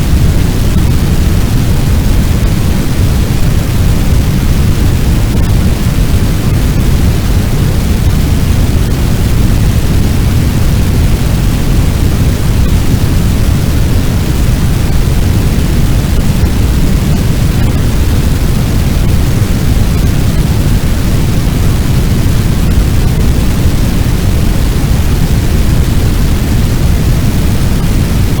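Fire sound effect: a loud, steady, low rumbling noise like a large blaze burning, with no crackles or changes standing out.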